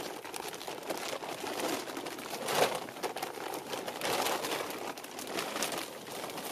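Polyethylene tarp rustling and crinkling as it is handled, loudest about two and a half seconds in.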